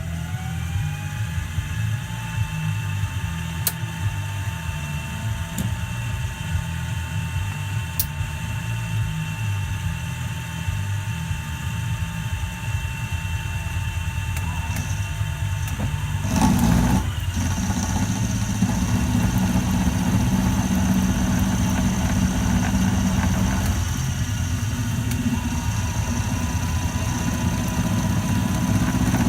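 Milling machine motor spinning up and then running steadily with a steady whine. A little past halfway there is a short loud burst, after which the running sound changes and grows somewhat louder.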